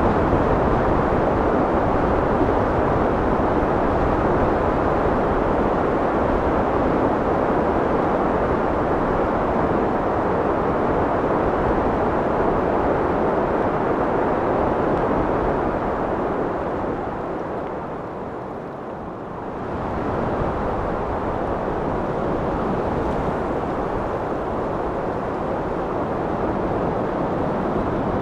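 Wind blowing steadily as a deep rushing noise. It eases off briefly about two-thirds of the way through, then picks up again.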